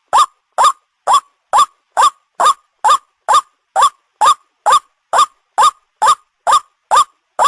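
White-breasted waterhen (ruak-ruak) call: a short, harsh, rising note repeated at a steady, even pace of about two calls a second, as in a looped bird-lure recording.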